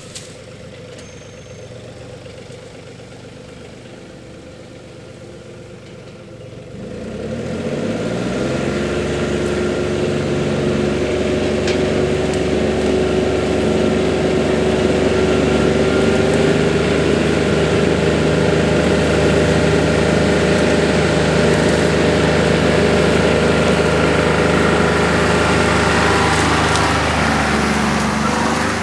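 Compact tractor engine idling low, then throttled up about seven seconds in and running at a steady higher speed, easing off briefly near the end.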